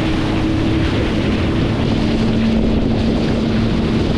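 Sea-Doo jet ski running under way over ocean swell, its engine drone steady under heavy wind on the microphone and water noise. The engine note drops a little about one and a half seconds in.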